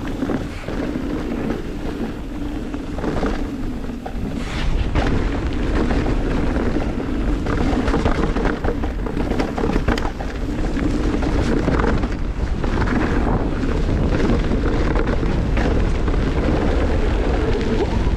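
Mountain bike riding down a wet, sandy downhill trail: wind buffeting the microphone over the rush of tyres on dirt, with the bike clattering over bumps throughout. It gets louder about four to five seconds in.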